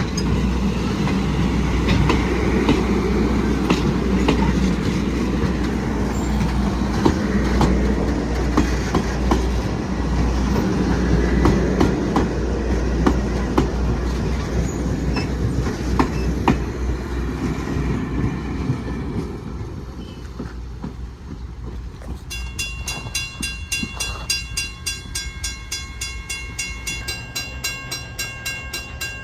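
A train rolling past on the rails with the clickety-clack of wheels over the rail joints, dying down after about twenty seconds. Then a quieter, steady ringing pattern of tones pulses evenly near the end.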